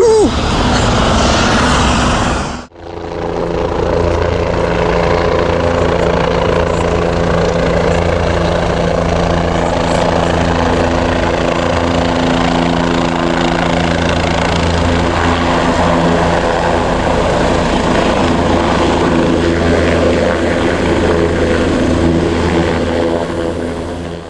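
Helicopter running steadily: a constant low hum with several steady tones over a noisy wash, unchanging throughout.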